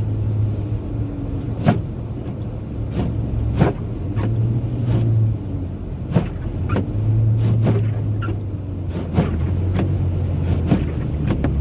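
Car driving at road speed, heard from inside the cabin: a steady low engine and road hum, with a few short light knocks scattered through.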